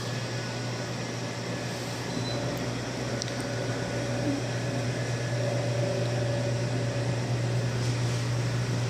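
Steady low mechanical hum with an even hiss over it, getting slightly louder toward the end.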